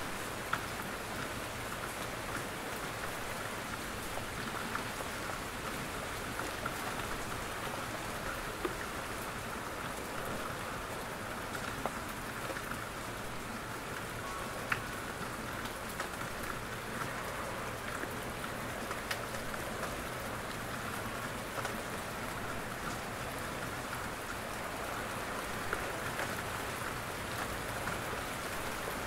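Steady rain falling in a forest, with scattered individual drops tapping as they fall from the trees.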